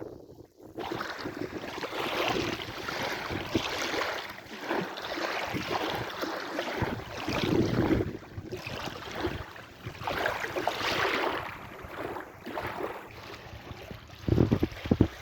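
Sea waves washing in, swelling and easing every few seconds, with wind buffeting the microphone in low rumbling gusts near the end.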